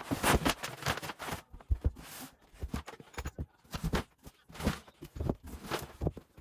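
Irregular light thumps and scratching of a kitten's paws and claws as it climbs and scrambles about on a cat tower.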